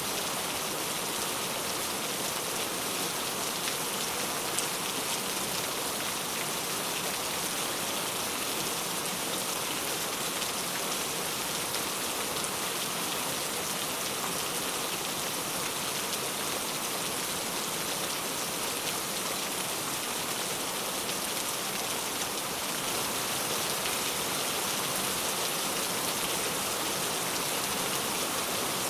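Heavy rain falling steadily, a dense even hiss of drops on surfaces, growing a little louder after about 23 seconds.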